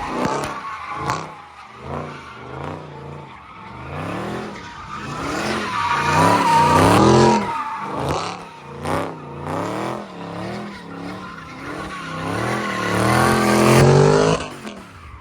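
Car engine revving hard up and down again and again, with tyres squealing loudest about six seconds in and again near the end, as in donuts or a burnout.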